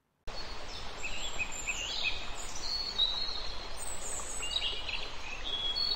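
Outdoor field ambience: a steady background hiss with small birds chirping and whistling in short high calls, starting after a brief silence.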